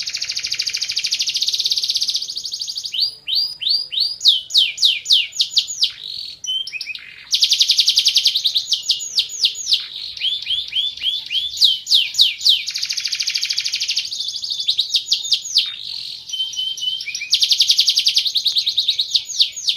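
Van Hesterling canary singing a long, loud song of rapid high trills: fast runs of repeated sweeping notes alternating with dense rolls held for about two seconds, broken by brief pauses.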